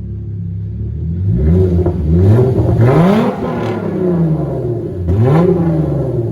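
2010 Hyundai Genesis Coupe's 3.8 L V6 with a muffler delete, loud through the unmuffled exhaust. It idles, then is revved in a quick run of blips a little over a second in, drops back toward idle, and is blipped once more about five seconds in.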